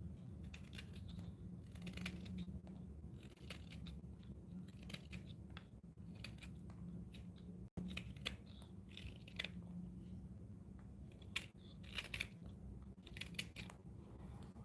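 Hand carving tool cutting into wood in short, irregular scraping strokes, over a low steady hum.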